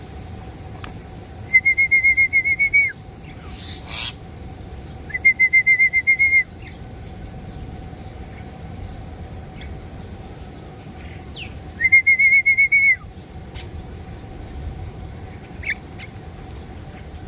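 A bird calling three times with a loud, rapid trill held on one pitch, each call about a second and a half long and ending in a short downward slur.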